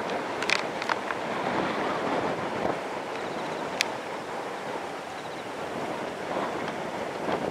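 Strong, gusty blow-back wind on the back side of a passing typhoon, a steady rush of noise with a few brief sharp clicks.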